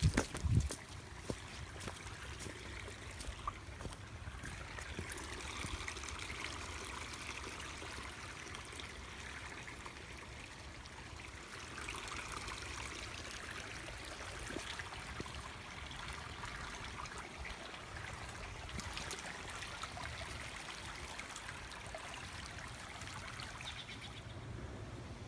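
Small stream trickling and running steadily over its bed, with a few sharp knocks in the first second.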